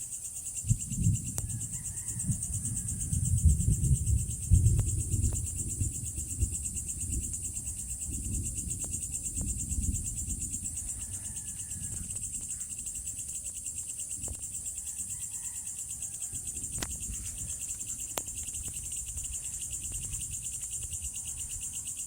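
Insects, crickets by their sound, trilling steadily in a dense chorus of two high, rapidly pulsing tones. A low rumbling comes and goes over the first half, loudest a few seconds in.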